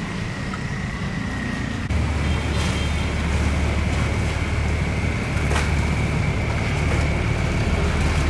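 Boat engine running steadily with a low hum and a faint high whine, getting louder about two seconds in.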